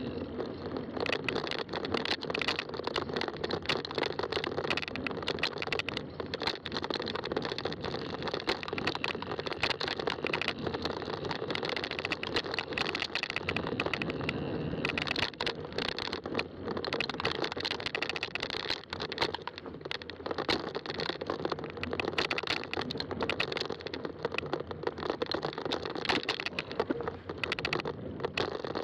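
Fat-tire bike being ridden on a trail: steady rolling tire noise with constant small clicks and rattles from the bike over rough ground.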